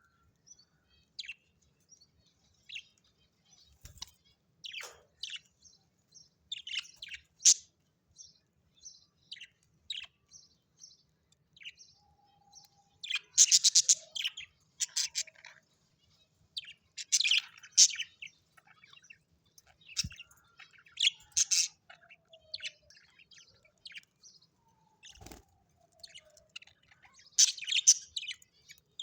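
Birds chirping in many short, high calls, with several louder bursts of rapid chattering spread through the middle and near the end.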